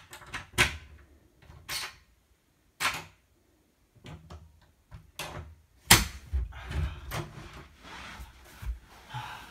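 A skeleton key being worked in an old door lock: scattered metallic clicks, rattles and scrapes, with a sharp knock about six seconds in, followed by softer rustling of movement against the door.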